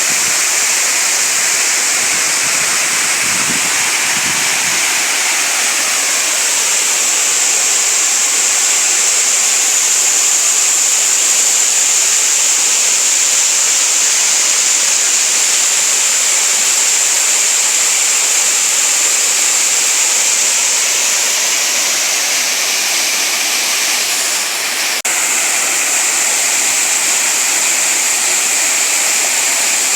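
Waterfall and flowing stream: a steady, dense rush of falling water that barely changes, dipping slightly for a moment about 25 seconds in.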